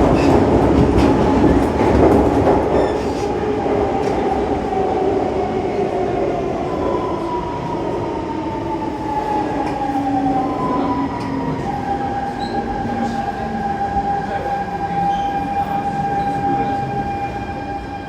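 Siemens C651 metro train running, its GTO-VVVF traction equipment whining under the rumble of wheels and car body. The whine tones glide down in pitch as the train slows, and the running noise fades; from about twelve seconds in, one steady whine holds.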